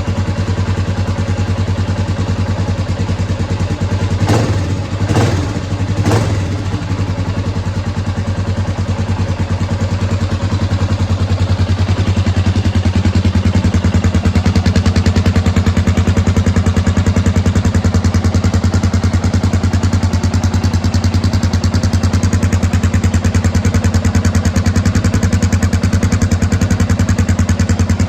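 Honda XR650R's single-cylinder four-stroke engine idling through a DG V2 aftermarket exhaust, with three quick throttle blips about four to six seconds in. From about twelve seconds in it runs a little louder at a steady speed.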